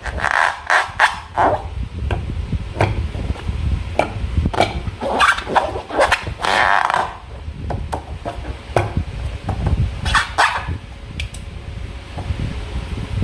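Slime being squeezed and pulled by hand: an irregular run of sticky clicks and short squelches.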